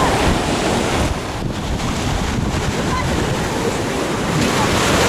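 Rough sea surf breaking and washing on a pebble beach, with wind buffeting the microphone. The surge eases about a second and a half in and builds again near the end.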